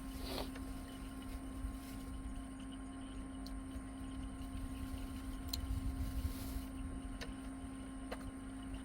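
Steady low hum, with a few faint scattered clicks and one brief falling sound near the start.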